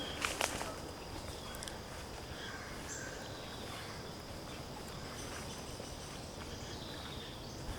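Woodland ambience: a steady high insect drone under an even hiss, with scattered short bird chirps and a couple of sharp clicks about half a second in.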